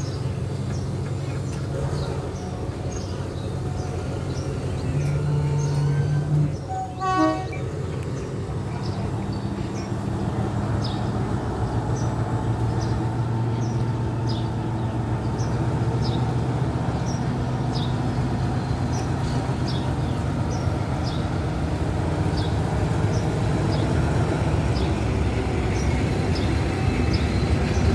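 Diesel passenger train pulling out of a station: the engine runs as a steady low hum that grows stronger after about ten seconds as the carriages roll past. There is a short low horn toot about five seconds in.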